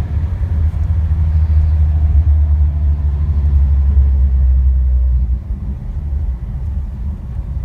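Toyota Sunrader's engine and road noise heard from inside the cab while driving: a low, steady rumble that builds over the first few seconds, then drops off suddenly about five and a half seconds in.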